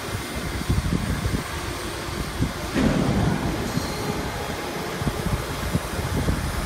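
Sheet-metal duct production machinery running: a steady low rumble with irregular knocks, louder for a moment about three seconds in.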